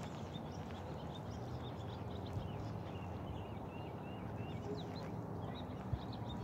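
Many short bird chirps over a steady low outdoor rumble, with a single small knock near the end.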